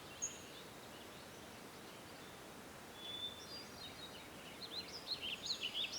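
Faint outdoor ambience with birds chirping: a single high chirp just after the start, then from about halfway a quick run of twittering, sweeping notes that grows denser toward the end.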